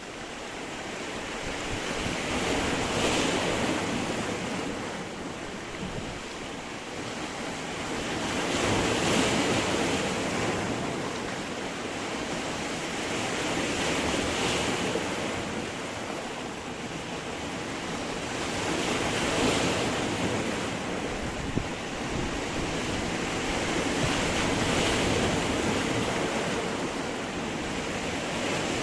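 Sea surf breaking against stone, the wash swelling and easing in slow surges about every five to six seconds.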